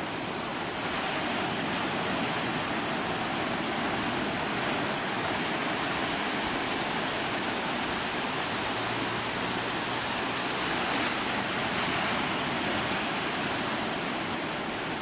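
Ocean surf breaking on a sandy beach: a steady wash of wave noise that swells slightly near the end.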